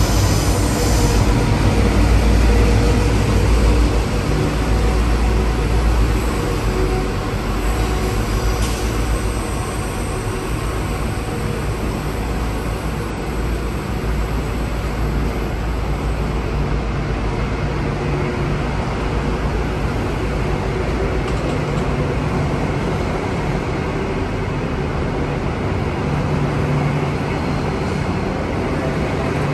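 Electric suburban train running on the track, a steady rumble with rail noise. It is loudest in the first few seconds, then eases to a steady level.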